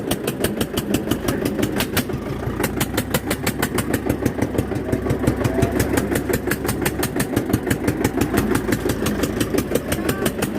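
Eicher 241 tractor's single-cylinder air-cooled diesel engine running steadily, with an even knocking beat several times a second.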